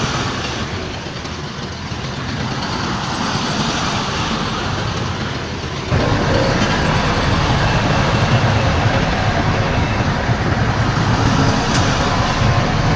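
Heavy diesel earthmoving machinery running, a steady low rumble with clatter over it. It turns abruptly louder about six seconds in.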